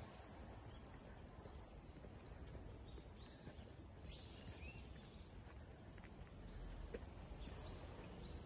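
Faint outdoor ambience: small birds chirping in short, repeated calls over a low, steady background hum.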